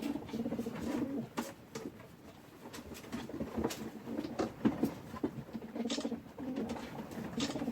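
Domestic pigeons cooing in a loft, with scattered sharp clicks and taps among the coos.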